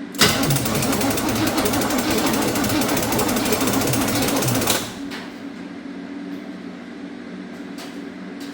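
Starter on a 1984 Chevrolet K20 dump truck clicking rapidly as the trigger is held, a fast continuous clatter lasting about four and a half seconds before it cuts off. The engine does not turn over properly: the starter cannot crank it on the weak battery, which then goes on a 200-amp boost.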